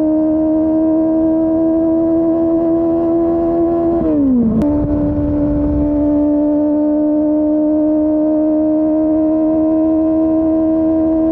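Kawasaki ZX-25R's inline-four engine through a Yoshimura R11 slip-on exhaust, running at high, steady revs while riding. About four seconds in, the revs drop sharply with a click, then climb straight back to a steady high-pitched wail.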